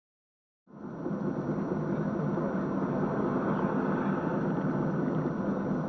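Steady driving noise of a moving vehicle, engine and road together, starting abruptly less than a second in after silence.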